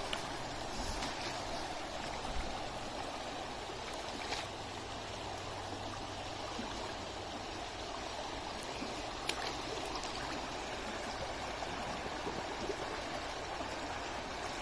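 Water flowing in a stream: a steady rushing, with a few faint clicks here and there.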